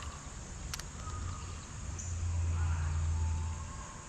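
Steady buzzing of summer insects, with a low rumble that swells in the middle and fades near the end, and one sharp click just under a second in.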